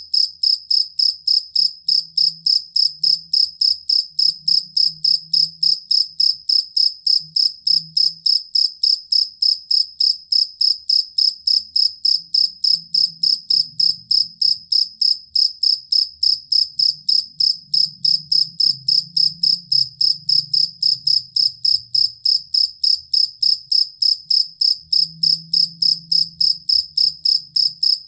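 Two-spotted field cricket (jangkrik kalung) chirping steadily in an even, unbroken rhythm of about three high-pitched chirps a second.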